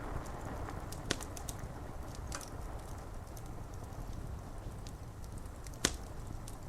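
Steady rain hiss over a low rumble, with the sharp pops of a wood fire crackling, loudest about a second in and again just before the end.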